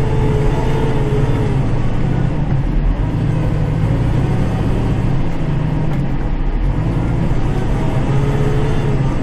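Kubota tractor's diesel engine running under load, heard from inside the cab while the snow plow blade is moved with the third-function hydraulic valve. A thin steady whine sounds for the first second or so and returns briefly near the end.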